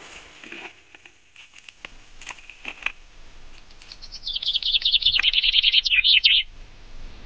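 A bird's fast chattering song, a rapid run of high chirps starting about four seconds in and lasting about two and a half seconds. Before it come scattered soft clicks and snaps.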